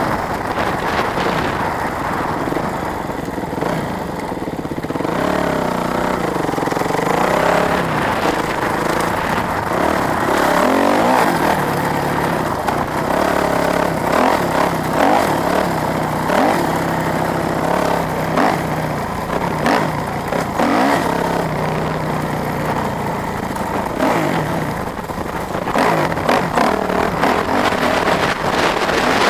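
Off-road vehicle engine running under load while being ridden, its pitch rising and falling repeatedly as the throttle is worked.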